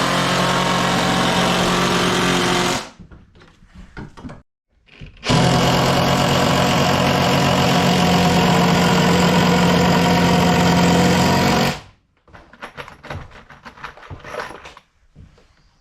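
A power tool running in two long bursts: one of about three seconds, then one of about six and a half seconds, each with a steady pitch. A few scattered knocks and handling sounds follow.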